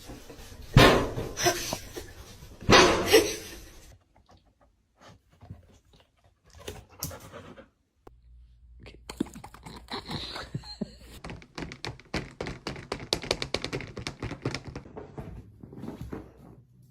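A dog panting quickly, in a fast run of short breaths through the second half, after two loud thumps in the first few seconds.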